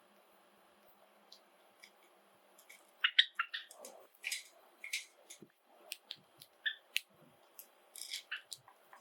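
Pet Java sparrows making short, sharp chirps and clicks in a quick irregular scatter, starting about three seconds in.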